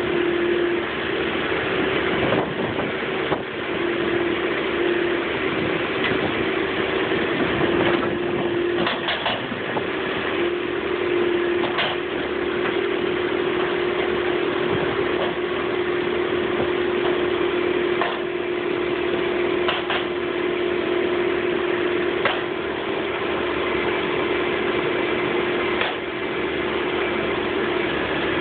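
Heavy diesel earthmoving equipment running steadily, with a strong steady hum or whine, and a few short sharp knocks scattered through.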